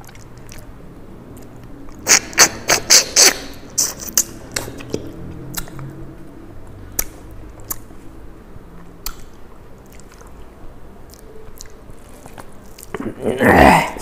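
Close-miked mouth sounds of a person eating rice and curry by hand: chewing with wet lip smacks, a quick run of sharp clicks about two seconds in and scattered single ones after, then a louder breathy noise near the end.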